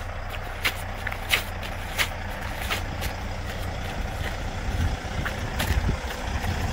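Semi truck's diesel engine idling steadily, with sharp clicks sounding at uneven intervals over it.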